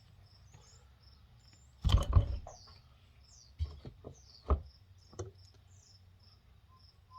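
A few knocks and clatters from tools and parts being handled during the final drive repair, the loudest a short clatter about two seconds in, then single knocks. Crickets chirp in an even, high-pitched pulse throughout.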